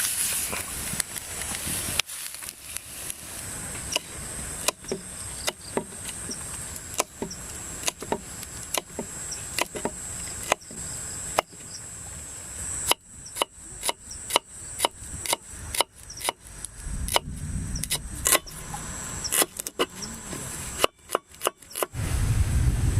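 A run of sharp, irregular knocks and clicks, some close together and some a second apart, over a steady high-pitched whine.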